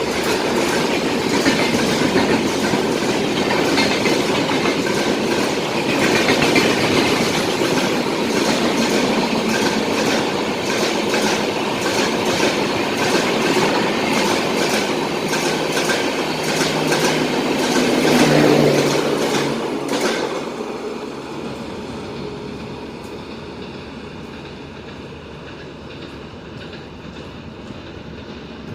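Rajdhani Express passenger train passing at speed, its coach wheels clicking rhythmically over the rail joints over a loud rumble. About twenty seconds in, the rattle thins and fades as the train runs off into the distance.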